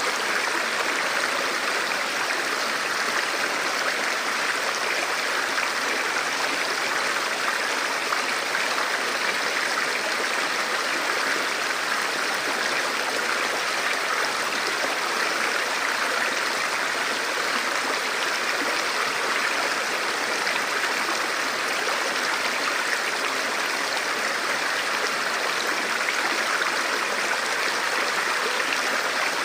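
Forest stream or small river flowing steadily over rocks, a constant rushing with gurgling water.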